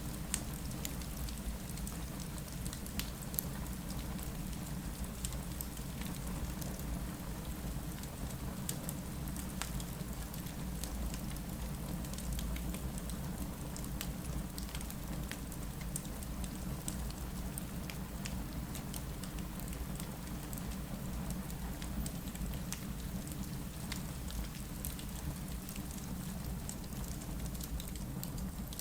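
Steady rain against a window over a low, even rumble, with scattered sharp crackles from a wood fire in a fireplace.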